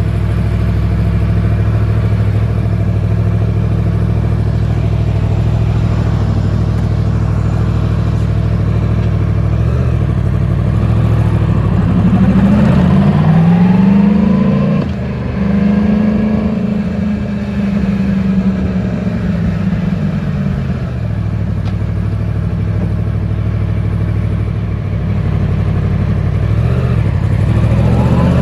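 Yamaha MT-10's crossplane inline-four idling steadily, then revved: the pitch climbs about twelve seconds in, holds raised for several seconds and falls back to idle, with another rev rising near the end.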